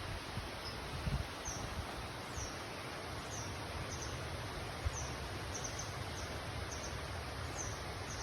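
Forest ambience: a steady rustling hiss, with a small bird repeating a short, high, falling note about once a second, sometimes in quick pairs or triplets.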